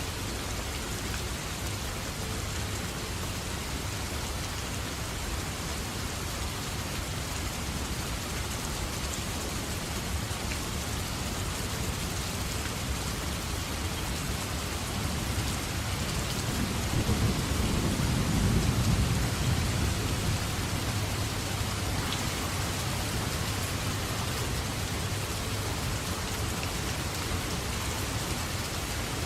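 Steady heavy rain falling in a forest, with a low rumble of thunder swelling up about halfway through and fading a few seconds later.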